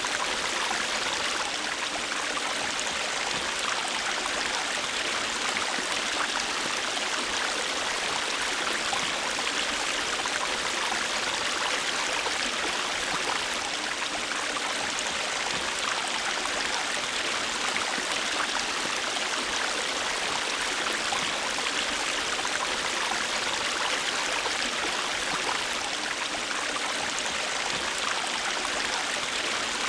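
River water flowing steadily over rocks: a constant rushing and babbling with fine splashing detail.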